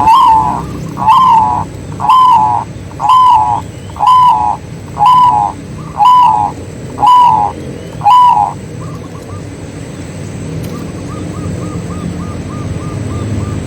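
Zebra dove calling: nine loud, evenly spaced notes about once a second, each an arched note of about half a second, followed a couple of seconds later by a fainter rapid run of short staccato notes at the same pitch.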